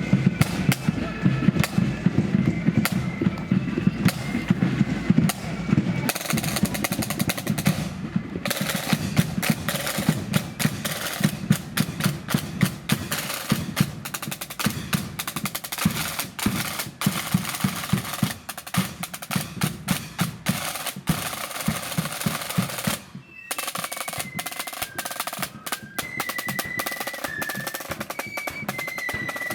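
Marching flute band playing: side drums rolling and a bass drum beating under a high flute melody. The flutes drop out after about eight seconds, leaving the drums, and come back in near the end.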